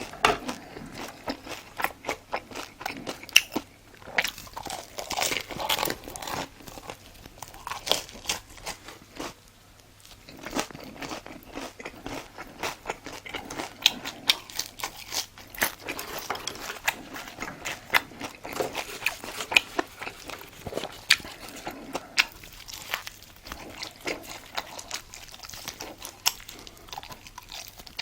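Close-miked biting, crunching and chewing of crisp food, with frequent sharp crackles and a short lull about ten seconds in.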